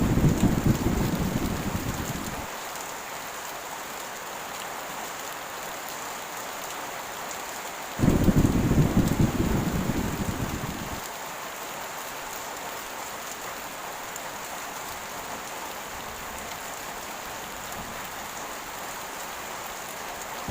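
Heavy rain falling steadily with a constant hiss, and rolls of thunder. A low rumble is already going at the start and fades after about two seconds. A second one breaks in sharply about eight seconds in and dies away over about three seconds.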